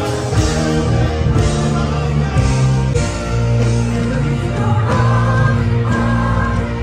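Live rock band playing through a PA: sustained chords over steady bass, with cymbal crashes recurring.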